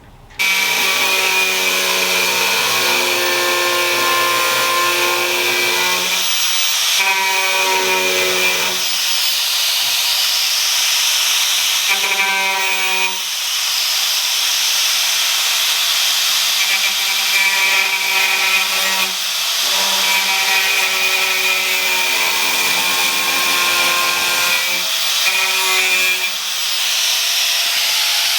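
Cordless angle grinder with a cutoff wheel cutting small metal tabs off a classic car door. A steady hiss runs under a motor whine that fades and returns several times as the wheel bites into the metal and is lifted off.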